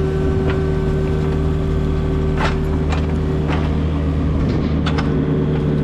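Diesel excavator engine running steadily under load, with a few sharp clanks and knocks as it rips at concrete footings.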